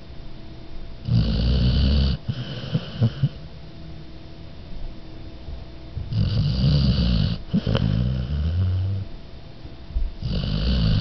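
A sleeping dog snoring: loud, low, rattling snores about every four to five seconds, with quieter breathing between them.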